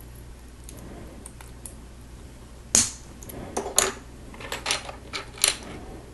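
Small plastic Lego pieces clicking and knocking as they are snapped together and handled: a few faint ticks, then a sharp click a little under three seconds in and a quick run of clicks over the next few seconds.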